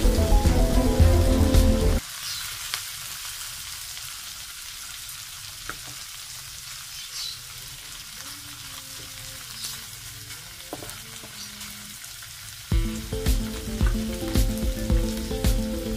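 Prawns with onion and garlic sizzling in hot oil and butter in a steel wok, with scattered clicks and scrapes of a spatula stirring against the pan. Background music plays loudly for the first two seconds, stops, and comes back near the end.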